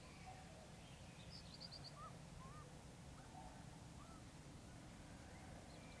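Faint dawn chorus of wild birds calling over a steady low rumble. A quick run of four or five high notes comes about a second and a half in, followed by several short whistled calls.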